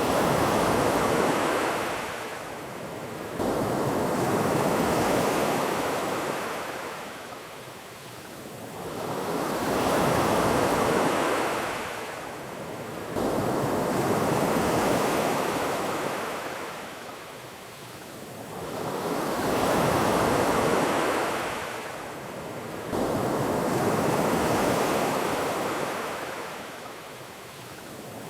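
Ocean surf: waves washing in, each one swelling and fading away, about every four to five seconds.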